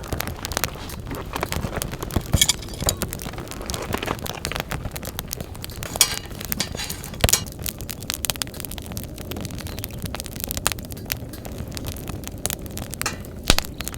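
Wood campfire crackling, with many sharp pops and snaps over a steady hiss of burning.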